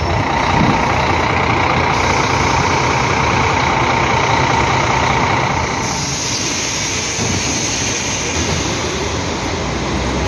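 Scania F360HA bi-articulated BRT bus running, with steady engine and road noise that shifts in tone about six seconds in.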